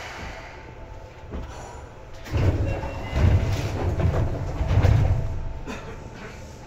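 Seibu 2000 series electric train running, heard from inside the car. About two seconds in, a loud rumble swells for roughly three seconds, then fades back to the steady running noise.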